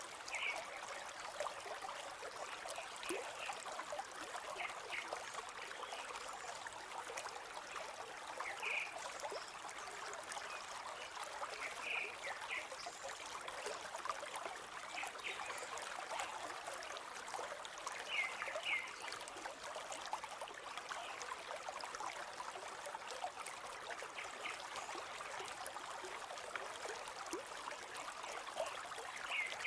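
River water flowing steadily in a continuous rush, with brief high chirps, some in pairs, every few seconds.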